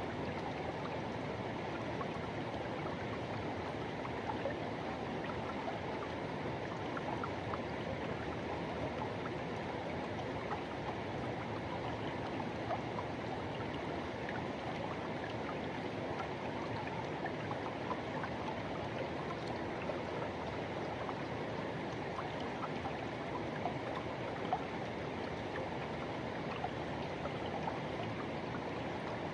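Forest river rushing and gurgling over rocks: a steady, unbroken wash of water with small splashes.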